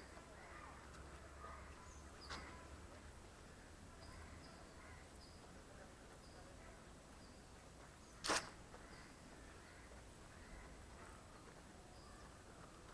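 Faint outdoor ambience with a small bird chirping again and again in short high notes. Two sharp clicks stand out, a small one about two seconds in and a louder one about eight seconds in.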